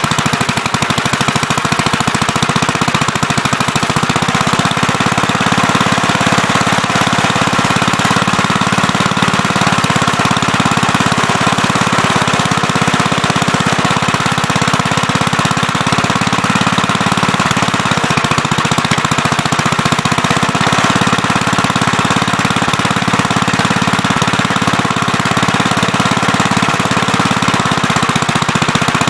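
Gravely Terramite backhoe's engine running steadily with a fast, even pulse.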